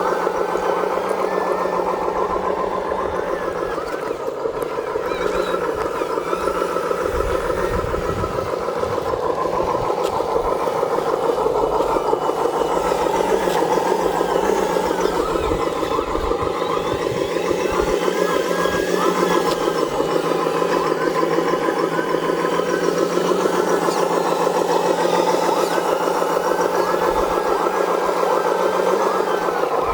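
An RC truck sound simulator module playing a heavy-duty diesel truck engine sound through a small onboard speaker. It runs steadily with a fast, even pulsing.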